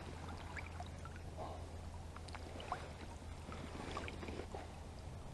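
Faint water sloshing with small scattered splashes and trickles as a northern pike is held in the shallow river and let go.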